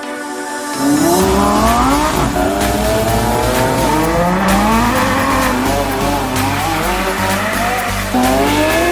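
Supercar engine accelerating hard through the gears, its pitch climbing and dropping at each upshift, starting suddenly about a second in after a short tail of intro music. A fresh loud climb starts near the end.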